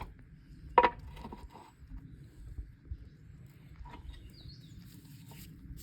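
A single sharp metal clank with a brief ring about a second in, then a few lighter knocks: steel tools and parts being handled during the repair of an excavator's thumb cylinder.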